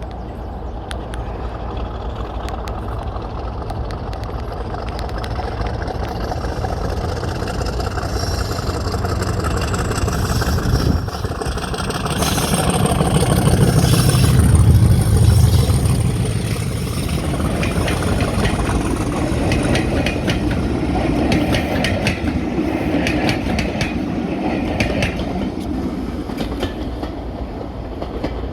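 Heritage diesel train passing: the engine's low rumble builds to its loudest about halfway through, and the wheels click over the rail joints as the coaches go by.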